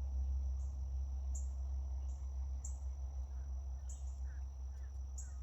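Insects in the woods making a steady high drone with a regular chirp repeating a little more than once a second, with a few faint bird chirps in the second half, over a steady low rumble.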